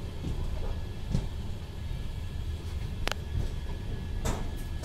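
Steady low rumble of the Nizamuddin–Jabalpur MP Sampark Kranti Express rolling slowly into the station, heard from aboard, with three sharp clacks as its wheels run over rail joints.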